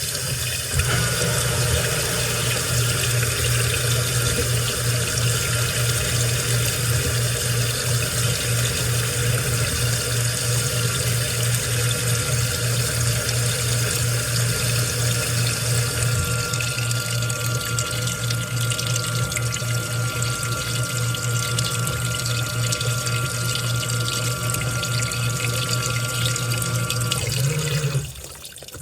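Washing machine running with water rushing through it over a steady low mechanical hum. The water starts about a second in and stops shortly before the end.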